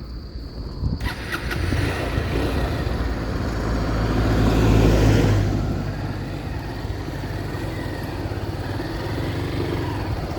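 Motorcycle engine running while riding, with wind noise over the microphone. It swells to its loudest about halfway through, then settles to a steady run.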